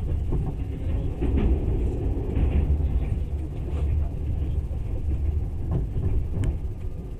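Passenger train running, heard from inside the carriage: a steady low rumble with scattered light clicks and knocks, and one sharp click about six and a half seconds in.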